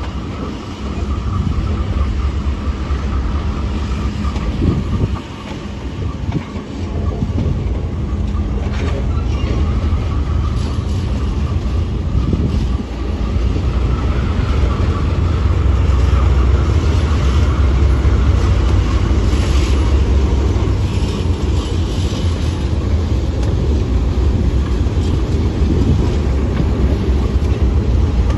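Train running past on the rails: a steady low rumble with the wheels clattering on the track. The rumble dips briefly early on, then grows louder about halfway through and holds there.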